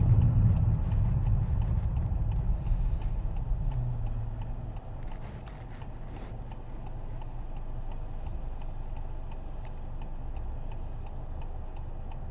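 Car cabin with the engine and road rumble easing off over the first few seconds, then the turn-signal indicator ticking steadily, about three ticks a second.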